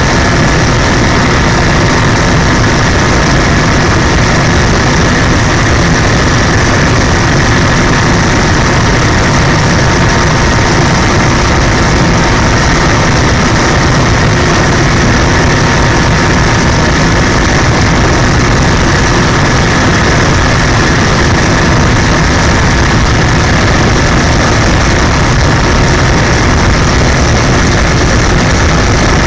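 Helicopter in flight: loud, steady engine and rotor noise with a constant whine, holding unchanged throughout.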